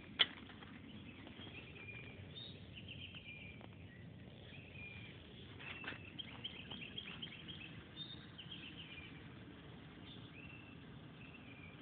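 Birds calling over and over, short chirps and quick trills, with one sharp click just after the start.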